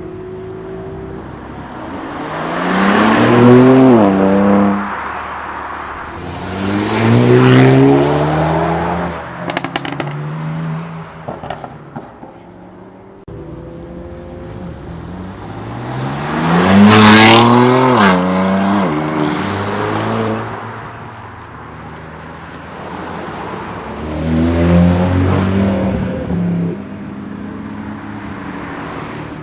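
Modified cars accelerating hard past one after another, four loud passes in all, each engine note climbing in pitch and dropping back at the gear changes. A few sharp exhaust crackles come between the second and third pass.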